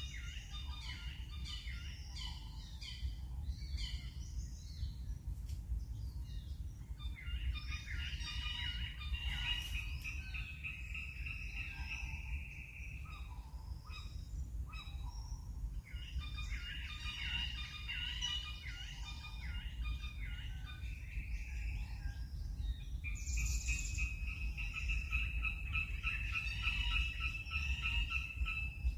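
Birds calling and chirping in the trees in short phrases and trills, with a steady low rumble underneath.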